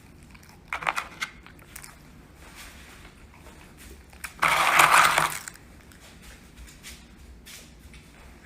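A dog crunching a cookie: a few sharp clicks about a second in, then a loud crunch lasting about a second near the middle.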